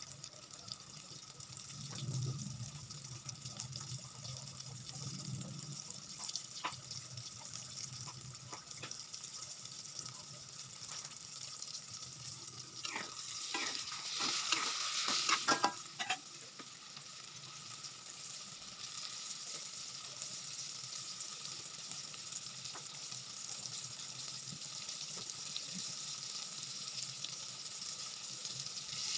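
Flour-coated tofu cubes sizzling steadily as they deep-fry in oil in a wok. For a few seconds about halfway through, a spatula stirs them, scraping and clacking against the wok.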